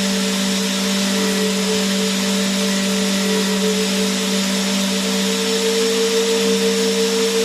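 Vacuum cleaner running continuously: a steady motor hum with a constant airy hiss, its pitch and level unchanging.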